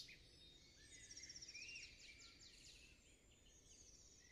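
Faint birdsong over near silence: scattered high chirps, with a short rapid trill about a second in.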